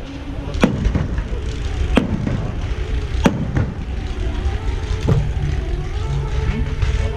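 Firework shells bursting: about four sharp bangs a second or so apart over a low rumble. Steady musical tones come in during the second half.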